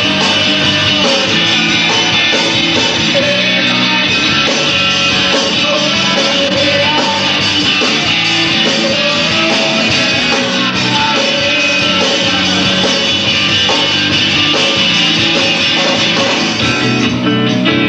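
Rock band playing loud, full-band rock music with a singer. Just before the end the sound thins out to a strummed electric guitar.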